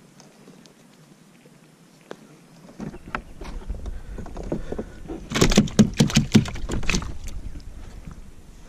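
Knocking and clattering on a fishing kayak as a caught fish and gear are handled. It starts about three seconds in over a low rumble, and the knocks are densest and loudest about halfway through.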